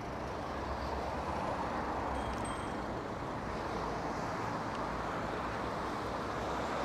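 Steady road-traffic noise: an even rumble and hiss of passing vehicles, with no single event standing out.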